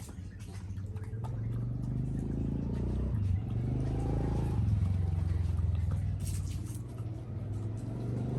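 A low, steady engine-like rumble that grows louder about two seconds in and stays up.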